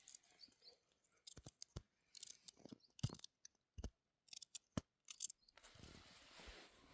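Faint, irregular clicks and ticks, a dozen or so spread over about five seconds, followed by a faint steady hiss near the end.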